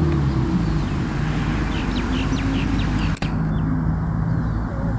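Birds chirping, a quick run of about six short chirps in the middle, over a steady low hum.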